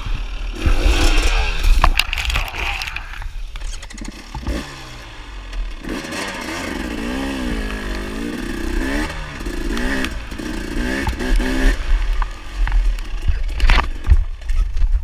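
Dirt bike engine running, its pitch rising and falling as it revs through the middle, over a steady low rumble, with a few sharp knocks.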